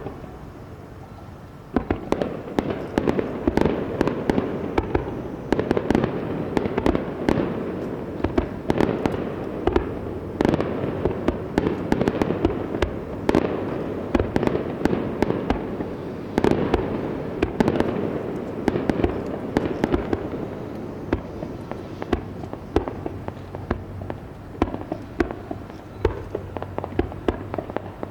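Aerial fireworks display: one bang at the start, then from about two seconds in a dense, rapid run of shell bursts and crackling, many reports overlapping.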